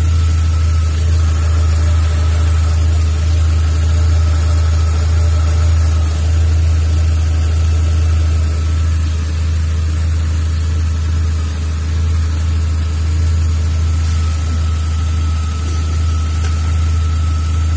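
Volkswagen Jetta Mk3 engine idling steadily at operating temperature while its cooling system is bled of air, a steady low hum with a faint steady high whine above it.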